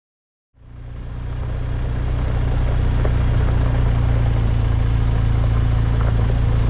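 Motorcycle engine running at steady revs, with a deep, even hum, fading in about half a second in.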